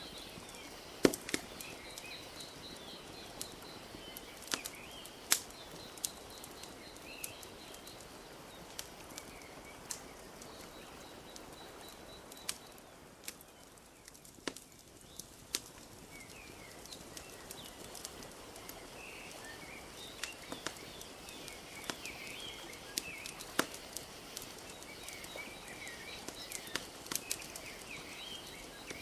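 Wood fire crackling with scattered sharp pops over a soft steady wash of lapping lake water, while small birds chirp; the chirping fades out around the middle and comes back in the second half.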